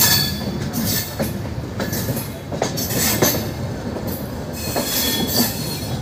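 Indian Railways passenger coaches rolling out of a station, heard from an open coach doorway: a steady rumble with irregular knocks as the wheels cross rail joints, and brief high wheel squeals near the start and about five seconds in.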